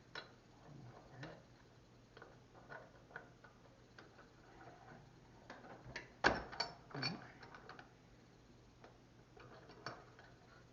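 Scattered light metal clicks and knocks as a clamp is repositioned and tightened on the workpiece, with a sharper clank about six seconds in.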